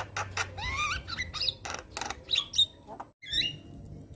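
Javan myna singing: a fast run of harsh clicking and chattering notes mixed with rising, bending whistles, broken by a brief gap about three seconds in.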